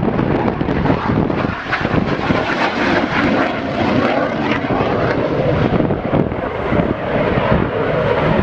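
Hawker Hunter jet flying a display pass: the loud, steady noise of its Rolls-Royce Avon turbojet.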